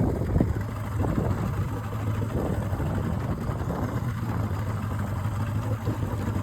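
Boat engine idling steadily with a low hum. The engine is unwilling to stay running and is later found to be lacking spark on two cylinders.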